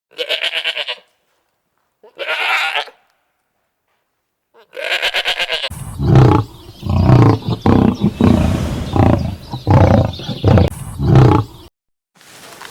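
Animal calls: three short rasping calls with pauses between them, then a rapid series of louder, deeper calls that stops shortly before the end.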